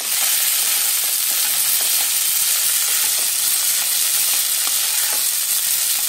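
Soaked tapioca pearls (sabudana) sizzling steadily in hot oil in a nonstick kadhai as a wooden spatula stirs them, with faint scraping ticks from the spatula.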